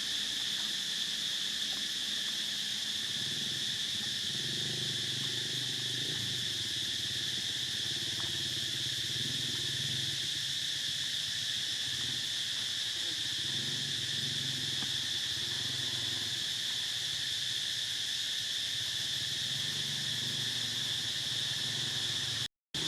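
Steady high-pitched drone of an insect chorus, with faint low indistinct murmuring underneath for much of the time. The sound cuts out for a split second near the end.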